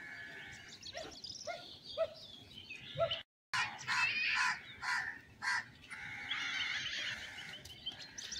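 Birds calling: short repeated calls in quick series, with a brief break in the sound about three seconds in. Steadier chirping follows near the end.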